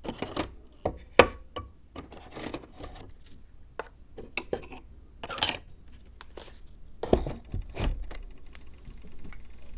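Small hard objects being handled and set down while a miniature zen rock garden is assembled: a run of light clicks and clinks, with two heavier knocks near the end.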